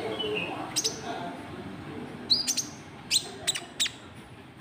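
Sharp, high chirps of a small bird called the konin trotol, the call used as a lure (pikat) to draw in rival birds. There is one note about a second in, then a quick run of short, down-slurred notes in the second half, over faint voices.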